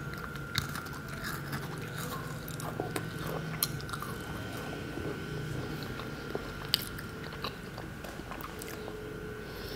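Thin matcha waffle cookie being bitten and chewed: a string of irregular crisp crunches, a few of them sharper, through the chewing.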